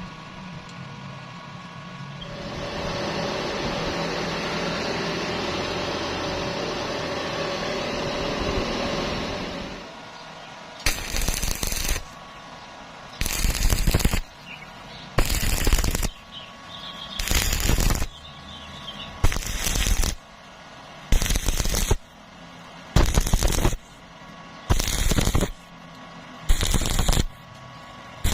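A steady hissing noise for about seven seconds. It is followed by a series of loud crackling electric-arc bursts, each about a second long and coming about every two seconds: stick welding laid down in short stitches on square iron.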